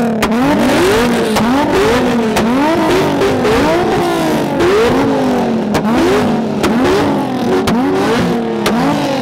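Yellow Corvette's V8 free-revved hard through a loud aftermarket exhaust in an exhaust competition. It blips about once a second, each rev climbing fast and falling back more slowly, with sharp cracks between revs.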